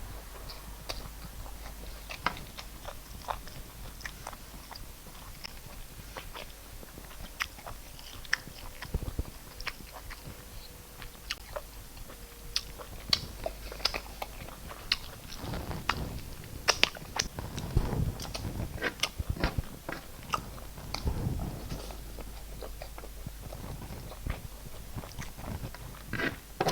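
Close-miked chewing and mouth smacks of a person eating rice and stew, with many short sharp clicks that come thicker in the second half.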